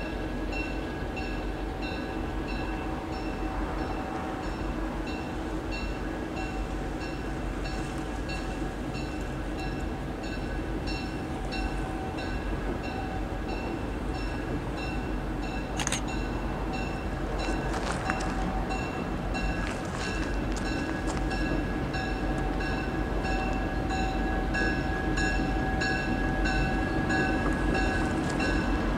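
An approaching train with a bell ringing steadily about twice a second over the train's low rumble, which grows louder near the end as the train nears.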